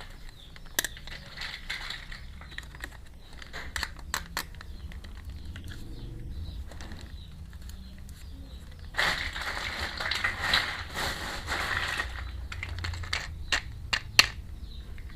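Small plastic toy pieces handled and set down: scattered sharp clicks and taps, with about three seconds of plastic packaging rustling in the middle and one louder click near the end.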